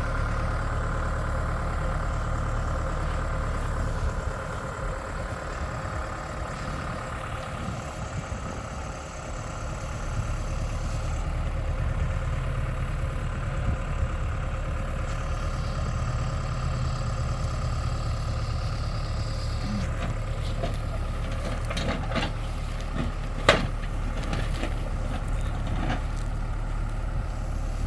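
An engine running steadily throughout, dipping slightly in loudness for a few seconds before coming back up, with a single sharp knock about 23 seconds in.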